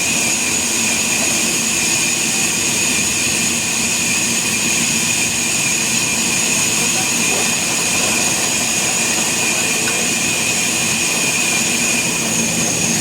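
Sawmill machinery running steadily, a constant mechanical noise with a high, even whine over it.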